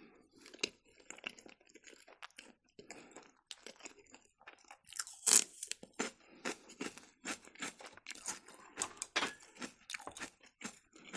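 Raw celery stalk being chewed, crisp crunching, soft at first and louder from about five seconds in, at about three crunches a second.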